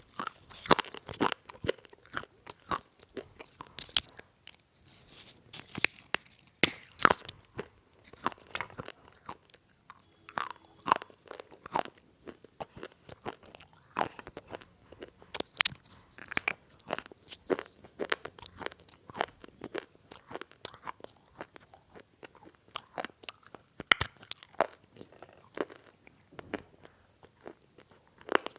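Close-up crunching and chewing of semi-roasted multani mitti (fuller's earth clay): repeated dry, brittle bites and crackling crunches at an irregular pace.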